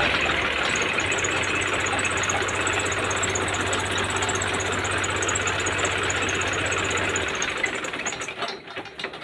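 Fiat 480 Special tractor's diesel engine running steadily while powering a chaff cutter; the sound drops away near the end.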